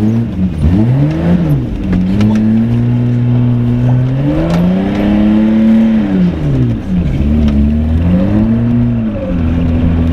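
1987 BMW 325i's straight-six running with no exhaust fitted, revving up and dropping back several times under way, with steady stretches between. The engine is misfiring badly.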